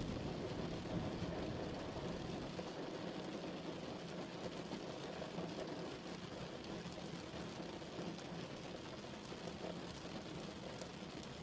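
Steady rain falling, an even hiss of drops, with the last of a thunder rumble dying away in the first couple of seconds; the rain slowly grows a little softer.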